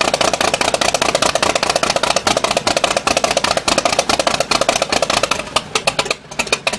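Cessna 310's Continental O-470 six-cylinder aircraft engine, freshly overhauled, running with a fast, dense firing beat. About six seconds in, the firing thins to separate, slowing pops as the engine shuts down and winds to a stop.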